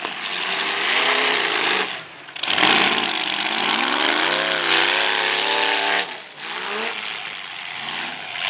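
Demolition derby cars' engines revving up and down, loud and rough, with pitch rising and falling, dipping briefly in loudness twice.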